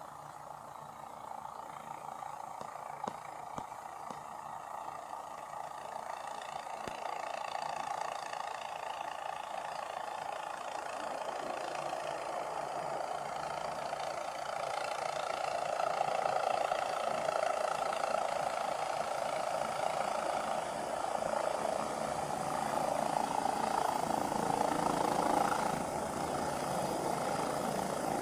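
Aircraft engine and rotor noise, a steady drone growing gradually louder as the aircraft approaches to land.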